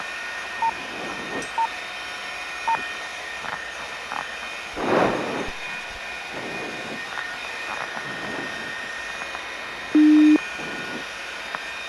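Helicopter cabin noise heard through the intercom, a steady hiss and hum. A few short high beeps come in the first three seconds, and one louder, lower beep lasting under half a second comes about ten seconds in.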